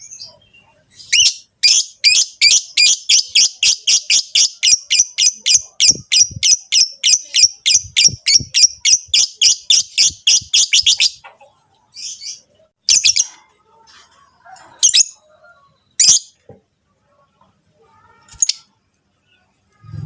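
Lovebirds calling: a fast, even run of sharp, high-pitched chirps, about four a second, for some ten seconds, then a few single chirps a second or two apart. These are the breeding calls of peach-faced and Fischer's lovebirds.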